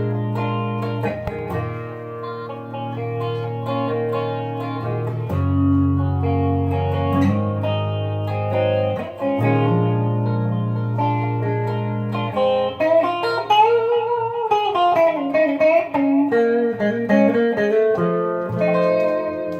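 Wolf KSA-50 electric guitar on both pickups, the middle selector position, through a clean amp with chorus and delay. Held, ringing chords for most of the first part, then a single-note lead line with string bends and faster notes.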